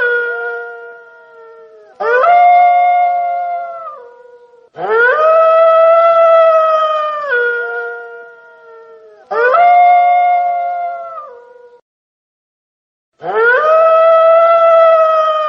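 Wolf howling: after the fading end of one howl come four more long howls. Each rises quickly at the start, holds a steady pitch for about two seconds, then drops to a lower note as it trails off, with short gaps between them.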